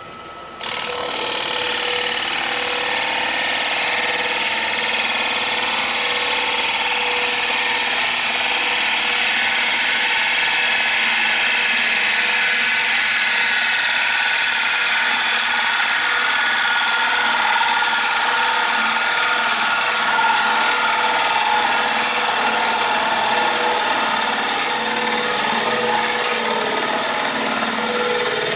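A rowan-wood bowl being worked on a running wood lathe: a steady, hissing scrape against the spinning wood sets in abruptly about a second in and holds even.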